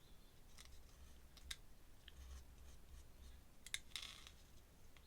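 Near silence: room tone with a handful of faint, short clicks and light rustles, the small sounds of pen and paper being handled at a desk.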